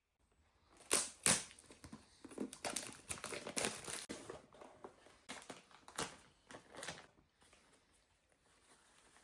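Box and packaging handled during an unboxing: a run of crinkling, rustling and small sharp clicks and knocks, busiest over the first few seconds and dying away about seven seconds in.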